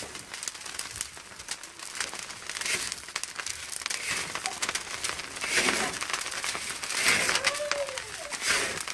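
Dense, irregular crackling from wet salt being roasted over a fire of cactus and desert brush, growing louder in the second half.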